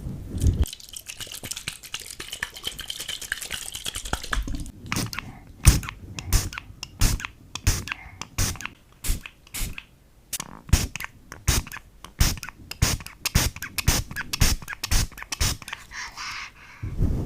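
Foam being crunched, giving sharp, irregular crackles and clicks, some in quick runs.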